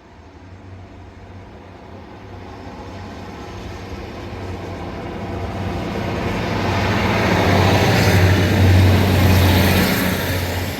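Diesel passenger train approaching along the platform. Its engine hum and the rush of the train grow steadily louder to a peak about eight to nine seconds in, then begin to ease.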